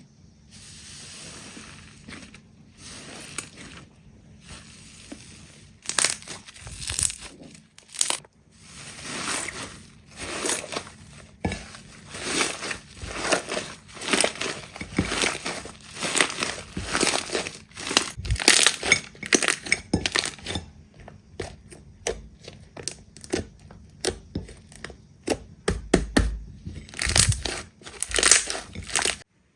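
Slime being squeezed and pressed by hand, giving crackly, crunching squishes about once a second, softer at first and louder from about six seconds in.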